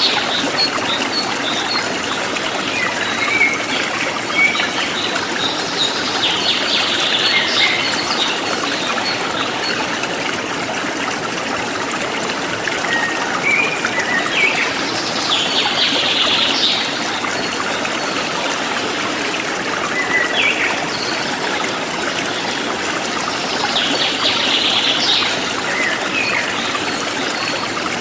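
Forest stream flowing steadily over rocks, with small songbirds chirping and trilling now and then above the water's rush.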